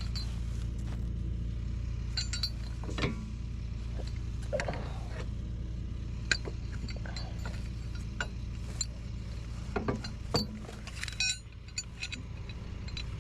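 A truck engine idling steadily, with scattered light metallic clinks and taps.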